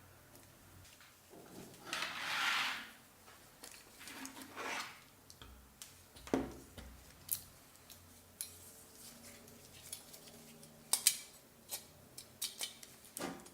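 Hand work on blender parts: a brief rubbing or wiping noise about two seconds in and a softer one a couple of seconds later, then scattered light clicks and taps of small parts being handled.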